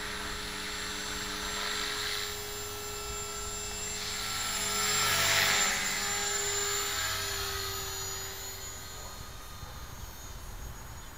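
Electric 450-size RC helicopter in flight, its motor and rotor whine carrying several steady tones. The sound grows to its loudest about halfway through, then drops in pitch and fades.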